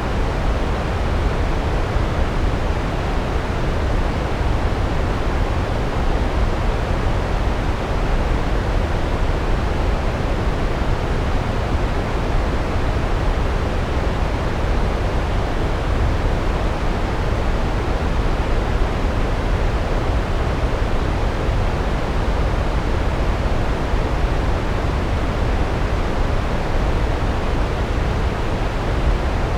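A large waterfall's steady roar of falling water, an even, unbroken rush that is heaviest in the deep end.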